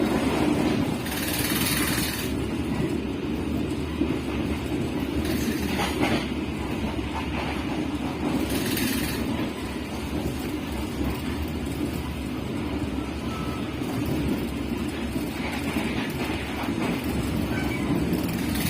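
Passenger train running along the line, heard from on board: a steady low rumble with a few brief hissing rushes.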